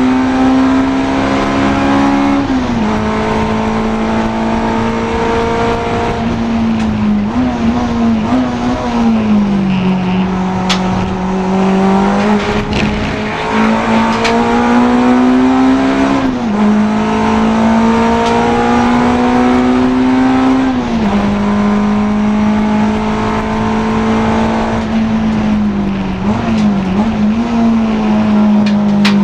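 Honda Integra DC2 race car's four-cylinder engine running hard at racing speed. Its note climbs slowly through each gear and drops sharply about five times, at gear changes or braking, with a brief warble twice.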